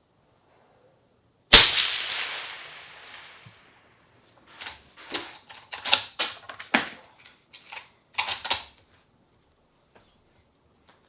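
A single rifle shot with a long echoing tail, followed a few seconds later by a run of sharp clicks and clacks from handling the rifle between shots.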